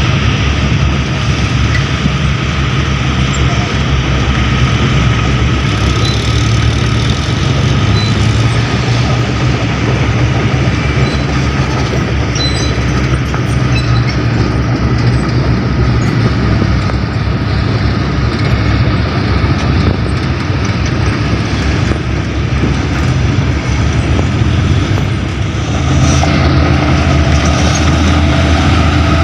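Mitsubishi Fuso dump truck's diesel engine running loudly and steadily under a broad rushing noise. Near the end the engine note shifts and grows slightly louder.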